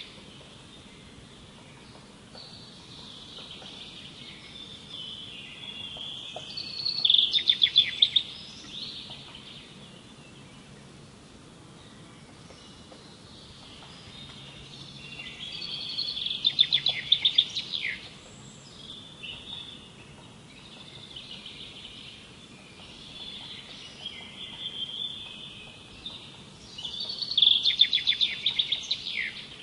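A songbird singing: three loud songs roughly ten seconds apart, each a burst of rapid, high trilled notes, with softer twittering phrases in between.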